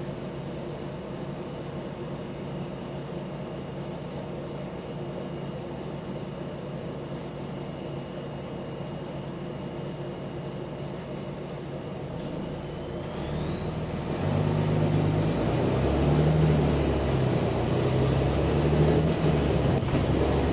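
Volvo B9TL double-decker bus engine heard from on board, running steadily at first, then growing louder about two-thirds of the way in as the bus pulls away. A high whine rises steeply in pitch as it moves off. The engine has an exhaust leak.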